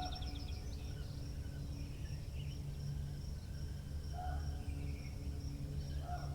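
Spring countryside ambience: a steady low wind rumble under a continuous high insect-like trill, with birds chirping and calling now and then, two short calls standing out about four and six seconds in.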